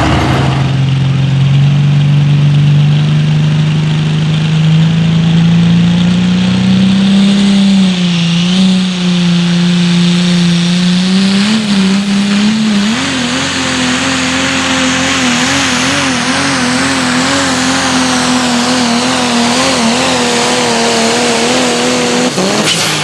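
Pro stock diesel four-wheel-drive pulling truck running at full throttle on a pull down the track. The engine note climbs slowly, steps higher about halfway through, wavers up and down over the second half, and drops off sharply just before the end as the run finishes.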